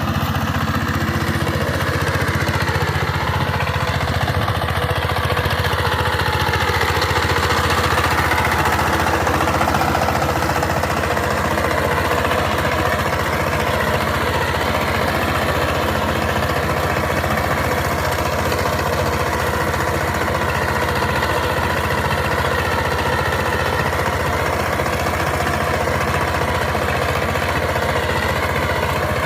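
Power tiller's diesel engine running steadily at idle.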